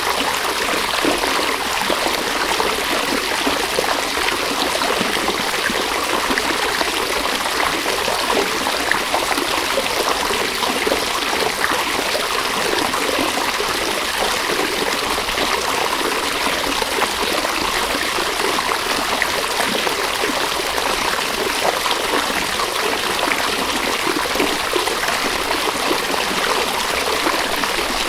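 River water flowing, a steady rush of running water with many small splashes throughout.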